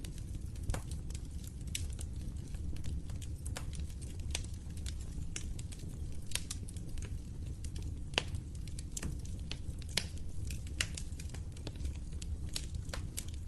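Wood fire crackling in a fireplace: irregular sharp snaps and pops over a steady low rumble. A few pops stand out louder, about a second in and again twice in the last third.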